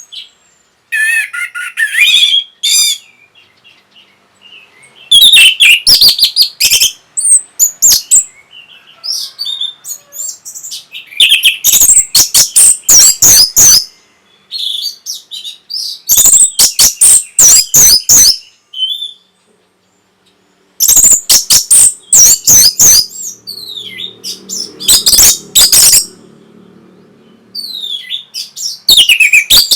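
Orange-headed thrush (punglor, anis merah) singing loudly in repeated bursts of rapid, varied high-pitched phrases, each burst a second or two long with short pauses between, as a recording meant to rouse other birds to sing.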